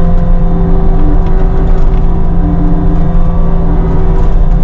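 Cat 259D3 compact track loader's diesel engine running steadily at an even pitch, with a strong low hum.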